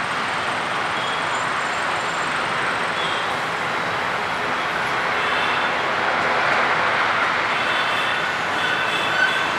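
Jet airliner's engines running, a steady loud rushing noise with a few faint high chirps near the end.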